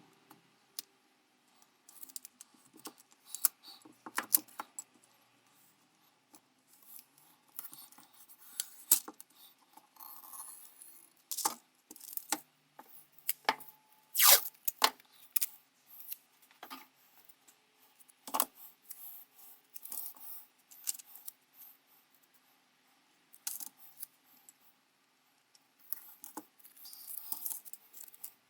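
Small metal parts being handled, with irregular light clicks, clinks and taps. The sharpest knocks come about 14 seconds in and again about 18 seconds in.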